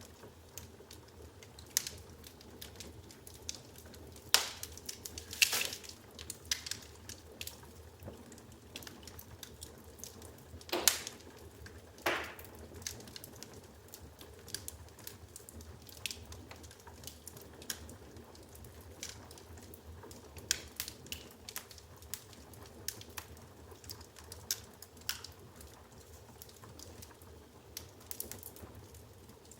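Firewood crackling in an open fireplace: scattered small pops and snaps, with a few louder snaps about four to five seconds in and again around eleven to twelve seconds, over a low steady rumble.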